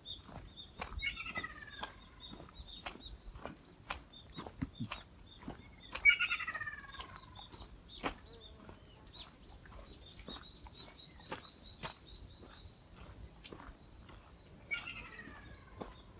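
Birds calling outdoors: a falling call is heard three times, with chirps and short sharp clicks scattered throughout, over a steady high-pitched buzz or hiss.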